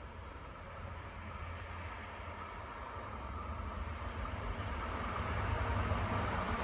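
A train approaching along the track, its running noise growing steadily louder as it comes closer.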